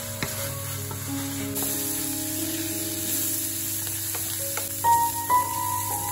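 Silkworms and fermented bamboo shoots sizzling in oil in a metal pan while being stirred, with a wooden spatula scraping and ticking against the pan. The sauté is being cooked down until dry.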